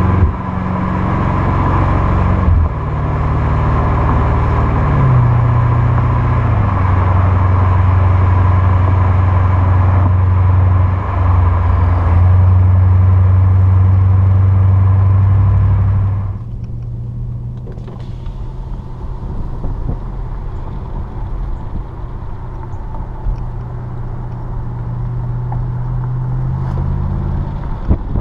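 2013 BMW 750Li's V8 exhaust through Flowmaster 50 Series Delta Flow mufflers while driving: a loud, deep engine note whose pitch shifts in several steps. About sixteen seconds in it drops to a quieter, lower, steady drone.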